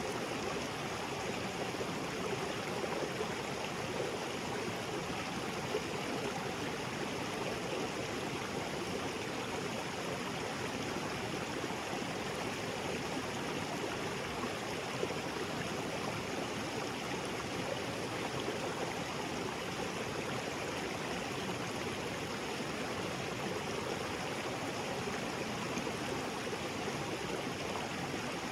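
Small waterfall splashing into a jungle creek, a steady even rush of falling and flowing water.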